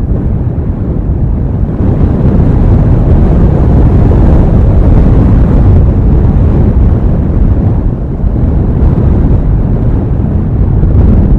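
Snowstorm wind buffeting an outdoor microphone: a loud, low rumble with no distinct events, building about two seconds in and holding.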